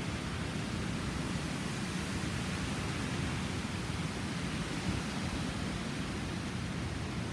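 Hurricane wind blowing steadily: a constant rushing noise, heaviest in the low end, with no single event standing out.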